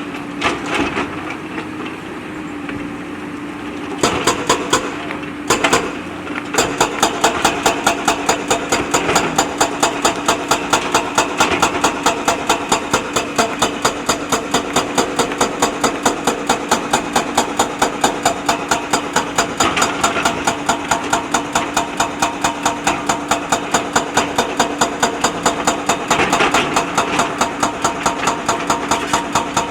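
JCB backhoe loader's diesel engine running steadily, with a regular knock about three times a second.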